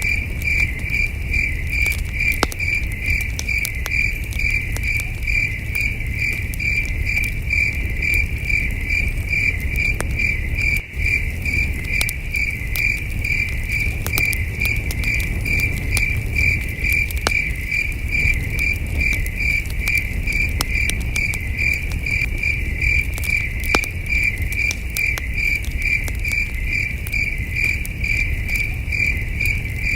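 Crickets chirping in a steady, evenly pulsed chorus, with campfire crackling: scattered sharp pops over a low rumble.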